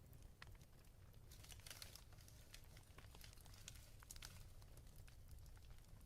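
Faint wood fire crackling in a fireplace: irregular small pops and snaps over a low steady rumble.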